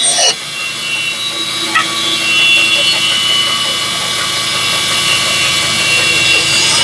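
Bandsaw running steadily, its blade cutting out a piece of wood.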